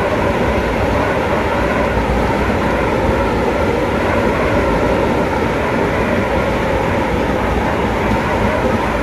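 Steady rolling rumble and rush of a passenger train running at speed, heard from inside its last carriage.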